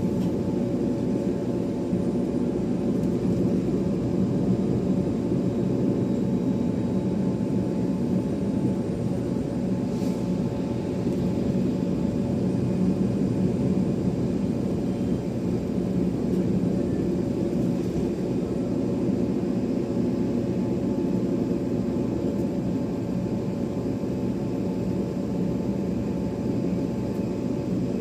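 Airliner engines running steadily at idle: a constant low hum with several steady tones.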